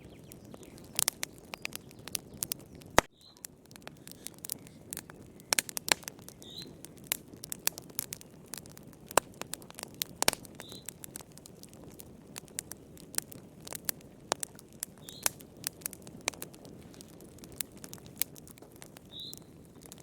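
Wood fire crackling: irregular sharp pops and snaps over a low rumble of burning logs, with one louder pop about three seconds in. A faint, short, high chirp recurs about every four seconds.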